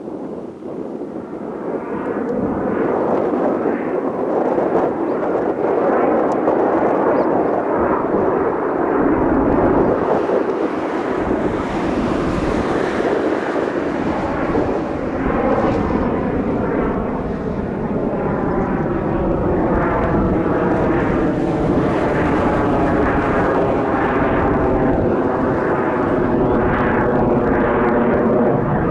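Jet noise from Blue Impulse Kawasaki T-4 trainers flying over. It grows louder over the first few seconds, then holds steady, taking on a wavering, phasing sound in the second half.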